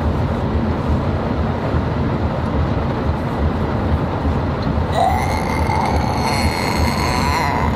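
Steady rumble of road and engine noise inside a moving car's cabin. About five seconds in, a high steady whine with a slight rise in pitch joins it and lasts almost to the end.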